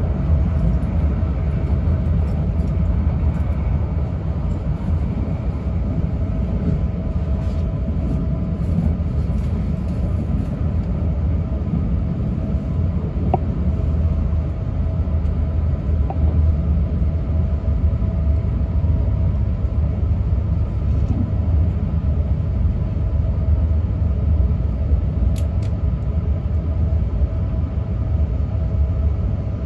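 E6 series Shinkansen train running at steady speed, heard from inside the passenger cabin: a constant low rumble with a faint steady high tone over it.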